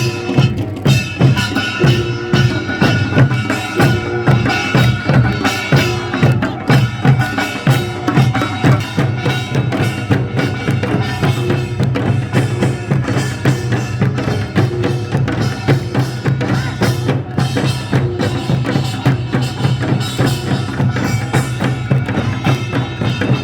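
Korean folk music played live: drums and other percussion beat a steady, quick rhythm under a sustained pitched melody.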